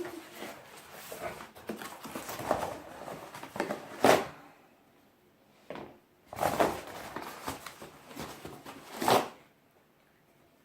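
Rustling and clatter of parts being handled, with three louder clattering sounds about 4, 6.5 and 9 seconds in.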